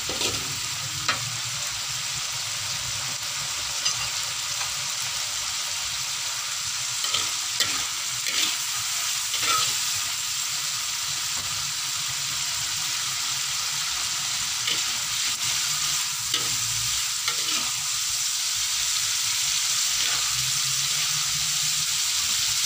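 Anchovy and chili sambal sizzling in a wok with a little water. A metal spatula scrapes and taps against the wok now and then as it is stirred.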